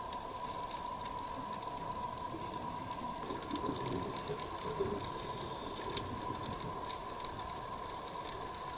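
Underwater ambience: a steady wash of water noise with a faint, steady high hum.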